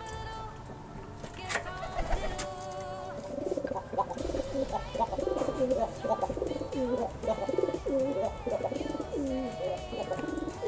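Domestic pigeons cooing repeatedly from about three seconds in, over background music. There is a sharp click about a second and a half in.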